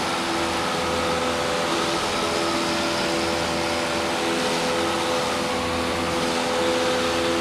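Cessna light aircraft's piston engine and propeller running steadily during the climb-out just after takeoff, an even drone with a constant hum heard inside the cockpit.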